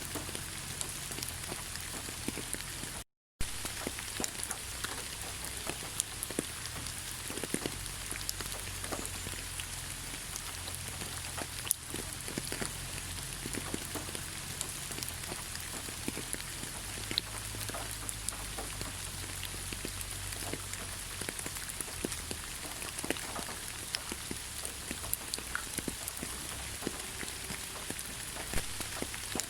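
Steady rain falling in a forest, an even hiss dotted with many separate drops striking close by. The sound drops out completely for a fraction of a second about three seconds in.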